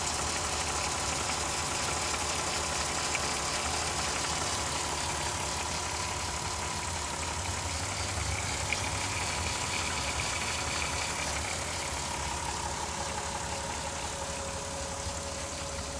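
2002 Volkswagen Jetta VR6 engine idling steadily, with a thin whine held over the low engine hum and a faint higher tone coming in briefly partway through.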